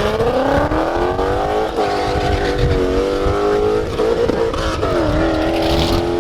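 Car engine accelerating hard through the gears on a drag-strip run. The pitch climbs and drops back at each upshift, about three times.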